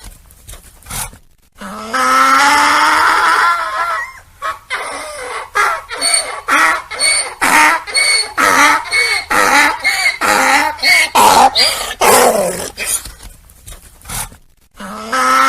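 Donkey braying: a long drawn-out call, then a run of short, rhythmic hee-haw gasps about two a second, with another call starting near the end.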